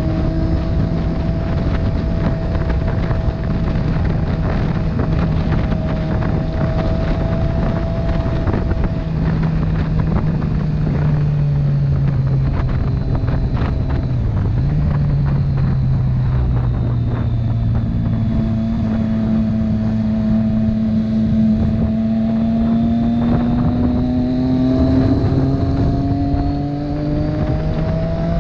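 Motorcycle engine running while riding, its pitch easing off and then climbing steadily with speed over the last ten seconds, under steady wind noise on the microphone.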